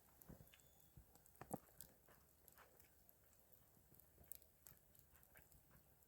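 Near silence with scattered faint clicks and knocks, one louder knock about a second and a half in.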